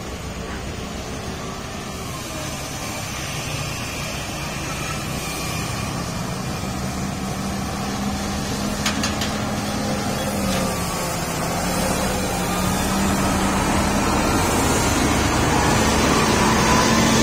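Heavily loaded truck's diesel engine running at a steady pitch, growing steadily louder as it draws near, with a brief dip in engine note about ten seconds in.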